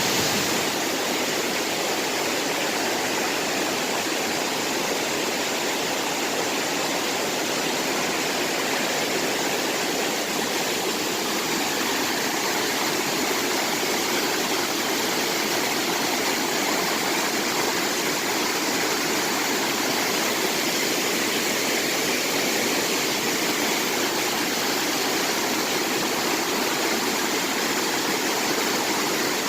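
Mountain stream rushing over rocks, a steady unbroken water noise.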